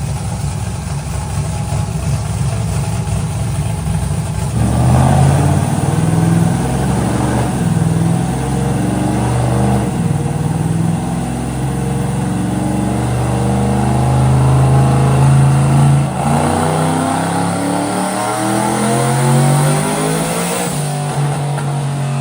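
Twin-turbo V8 engine of a NASCAR truck running on a chassis dyno. It runs steadily, then gets louder about four and a half seconds in and climbs in pitch in steps under load, on its first pull on wastegate spring pressure alone. It is loudest past the middle, breaks off for an instant near sixteen seconds, then rises again before easing off at the end.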